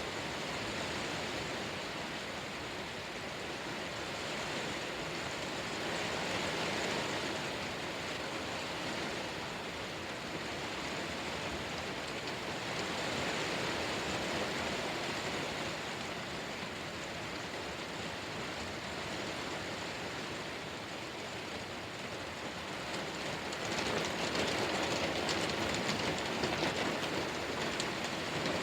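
Heavy rain pouring down in a steady rush that swells and eases, growing louder and heavier about three-quarters of the way through, with scattered sharp ticks of drops near the end.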